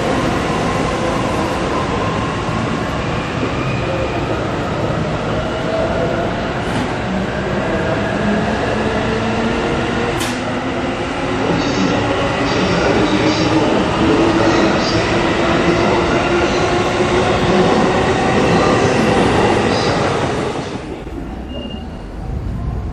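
Electric commuter train on the Tobu Noda Line running past a platform: motor and gear whine with several gliding tones over wheel and rail noise. The sound drops away sharply about 21 seconds in as the train leaves.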